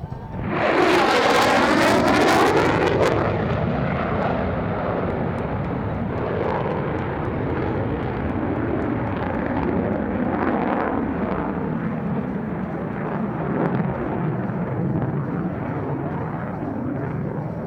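F-35A Lightning II's single F135 afterburning turbofan on a high-speed pass. The jet noise arrives suddenly and is loudest for the first few seconds, with a falling sweep of tones. It then settles into a long rumbling roar that lingers.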